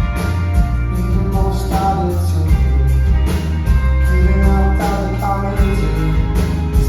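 Live rock band playing loud: drum kit keeping a steady beat under heavy bass and sustained guitar and keyboard chords.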